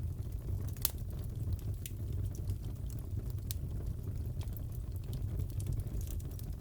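Crackling wood fire in a fireplace: a steady low rumble with scattered sharp pops and snaps, the loudest about a second in.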